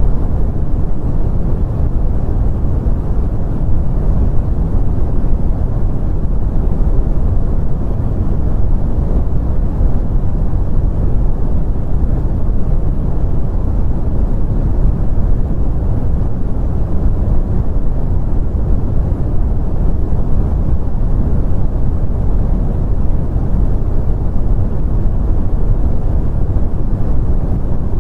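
Steady brown noise: a constant deep rumbling hiss, strongest in the bass and dull in the treble, with no change or events.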